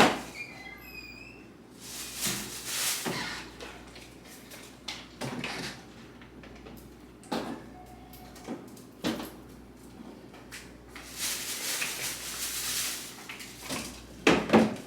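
Kitchen cupboard doors and drawers opening and closing while groceries are put away: scattered knocks and clicks, with stretches of rustling in between.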